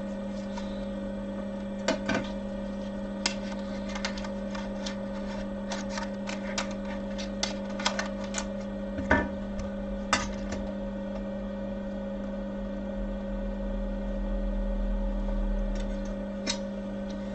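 Scattered light clicks and taps of small tools and phone parts being handled at a repair bench, over a steady electrical hum. A low rumble swells and fades near the end.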